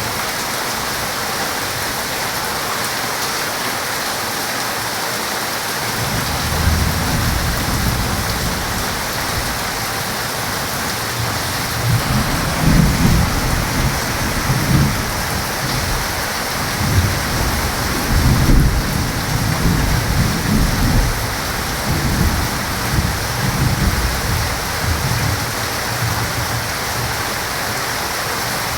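Heavy rain falling steadily, with a long roll of thunder that starts about six seconds in, swells into several louder rumbles, and dies away near the end.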